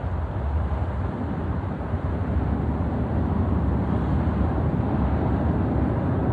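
Deep, steady rumble of the Space Launch System rocket climbing away under its twin solid rocket boosters and four RS-25 engines, growing slightly louder.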